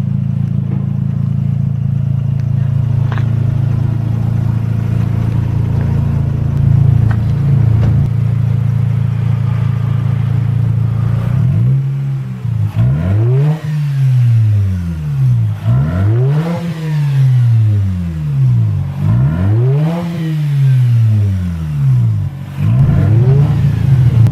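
Mazda RX-8's two-rotor rotary engine through a stainless straight-through muffler, idling steadily with a short blip about seven seconds in. In the second half it is revved four times, each rev rising and falling back, before it settles toward idle.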